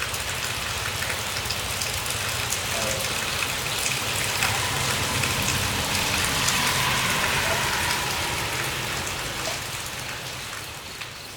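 Steady hiss of rain, with a low steady hum underneath; it eases off over the last few seconds.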